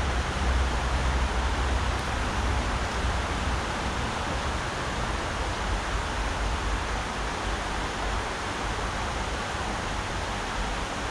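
Mountain river water rushing steadily over rocks, an even wash of noise with no break.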